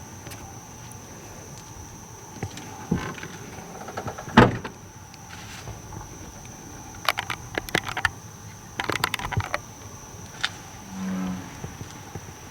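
Scattered sharp clicks and knocks, the loudest a single thump about four seconds in, then a short low croak near the end, typical of an American bullfrog.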